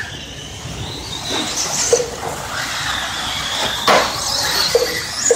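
Radio-controlled racing trucks running on a dirt track, their motors whining at speed, with a sharp clack a little before the middle, likely a truck landing or hitting something.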